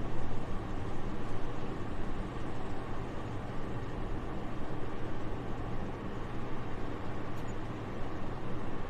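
Soft, steady winter wind: a low, even, airy rush that rises and falls gently in level.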